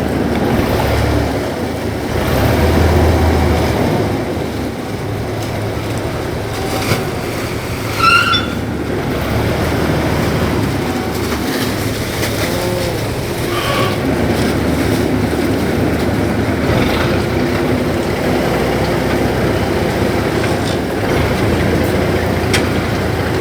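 River ferry's engine running steadily, a low drone under the noise of the boat and water. About eight seconds in there is a brief high squeal that rises in pitch.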